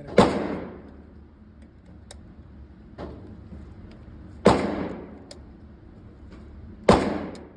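Three unsuppressed shots from a 7.62 rifle, a few seconds apart, each followed by a short ringing echo. A fainter shot is heard about three seconds in, and faint distant cracks sound between them.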